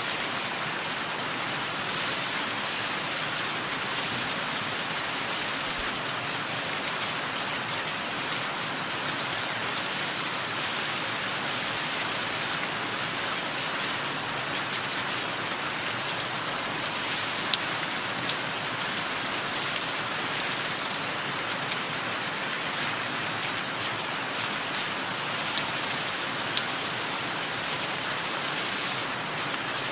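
Steady rain falling, with a small bird repeating short, high, downward-sliding chirps, mostly in pairs, about every two seconds.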